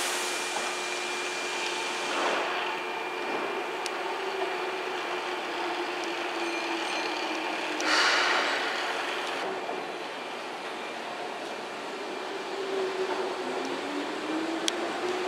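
Keihan 8000 series electric train running slowly into a station platform, with a humming tone that slowly falls in pitch. A brief loud hiss comes about eight seconds in, and the hum rises in pitch again near the end.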